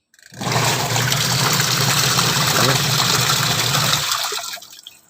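Washing machine wash motor running with a low hum while water churns in the tub, cutting out about four seconds in. The pause is part of the wash cycle that now stops and reverses direction after the repair, where before it spun only one way.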